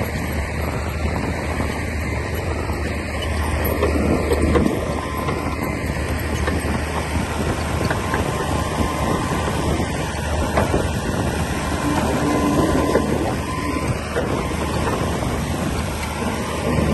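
Komatsu D60P bulldozer working: its diesel engine running steadily, with scattered metallic clanks and squeaks from the tracks and blade.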